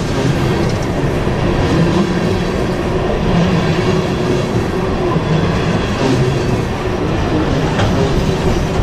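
Freight train of covered hopper cars rolling past close by over a steel trestle: a loud, steady rumble of wheels on rail, with an occasional faint clack.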